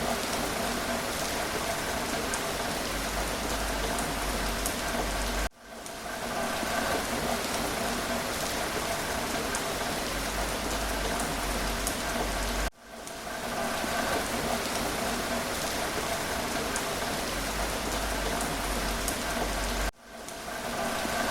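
Steady rain. Three times, about every seven seconds, it drops out sharply for an instant and swells back in.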